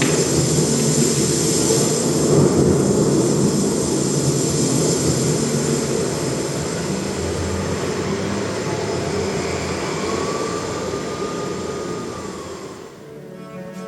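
Loud, steady rushing noise, with a faint tone gliding up and back down about ten seconds in. It fades out about thirteen seconds in as music with bowed strings begins.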